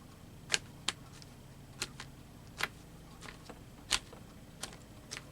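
Light, sharp taps and clicks, about six spread unevenly over five seconds, from dabbing down freshly sprayed paper in a craft tray.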